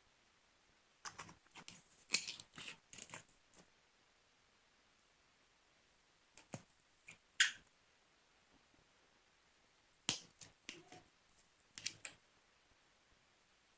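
Slime being squeezed and worked by hand, making sticky clicking and popping sounds in three short bursts with quiet pauses between.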